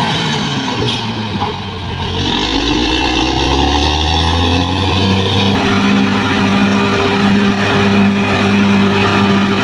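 Heavy diesel engine of a bulldozer running under changing load. Its pitch dips and climbs for a few seconds, then holds steady for the rest.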